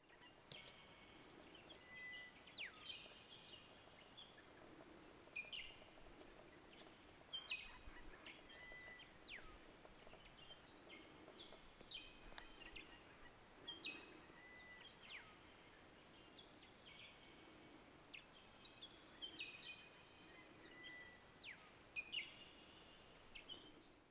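Faint bird calls: short chirps and trills recurring every second or two, with now and then a whistle that slides down in pitch, over a steady background hiss.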